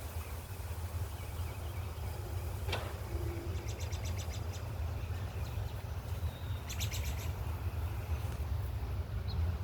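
Two short bursts of rapid, high bird chirps, about three and a half seconds in and again about seven seconds in, over a low steady rumble.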